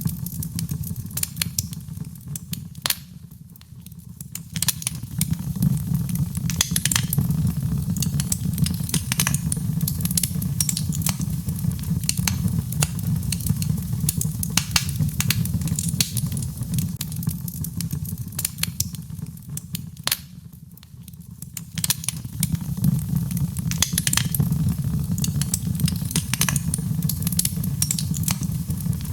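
Birch logs burning in a fireplace: frequent sharp crackles and pops over a steady low rumble. The sound eases off briefly twice, a few seconds in and again about two-thirds of the way through.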